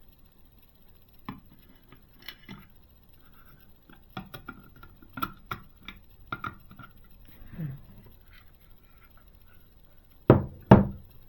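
Small screws, a screwdriver and model parts handled on a work surface: scattered light clicks and taps, then two loud knocks in quick succession near the end as something is set down.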